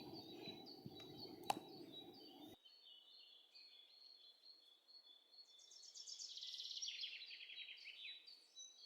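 Faint bird song: scattered high chirps, then a rapid trill of quick notes stepping down in pitch for about two and a half seconds near the end.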